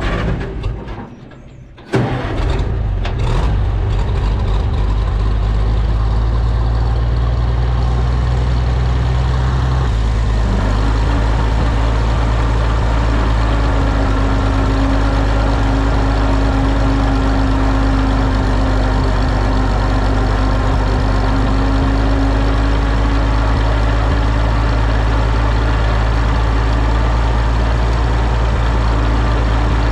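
Oliver OC-6 crawler tractor's engine catching about two seconds in after a short crank, then running steadily; its note changes about ten seconds in and it settles into a steady run.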